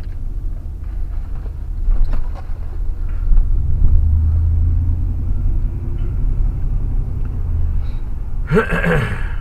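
Steady low road and engine rumble inside a Chevrolet Suburban's cabin on the move, swelling louder through the middle. A brief pitched sound with sliding tones cuts in near the end.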